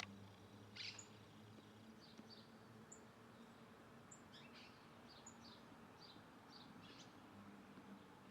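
Birds chirping faintly: short high chirps scattered irregularly, the loudest about a second in, over a faint steady low hum.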